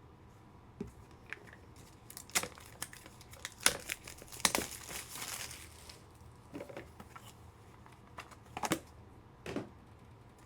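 Plastic packaging crinkling and rustling in short bursts, with a few sharp clicks, as sports trading cards are unwrapped and handled.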